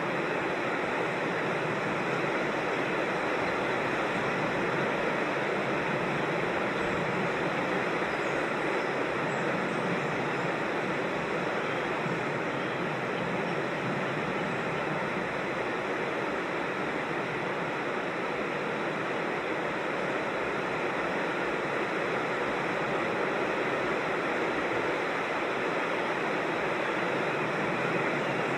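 Creek water rushing steadily, an even unbroken rush.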